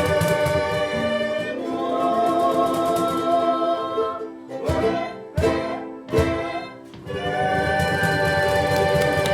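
Live ukulele ensemble music with a voice singing long held notes, the phrases broken by short pauses around the middle.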